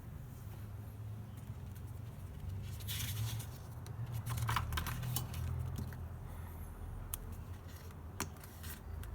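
Hands handling the product packaging: scattered clicks, taps and short rustles, busiest a few seconds in, over a steady low hum.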